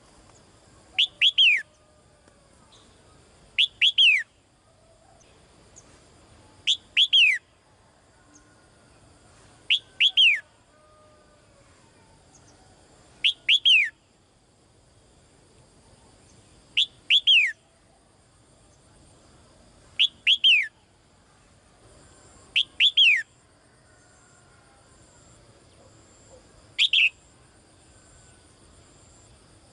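Caged female songbird calling to a male: nine short calls, each two or three quick whistles sweeping downward, repeated about every three seconds.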